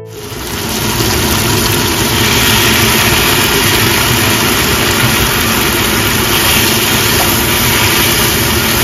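Loud, steady stovetop cooking noise as a wok of fried onion-tomato masala gets drained peas and potatoes stirred into it, building over the first second and then holding level.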